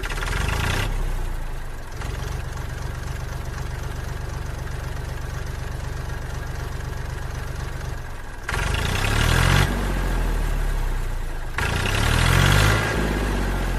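Mini diesel engine running at a steady idle with an even, fast firing beat, then revved up and back down twice: once about eight seconds in and again near the end.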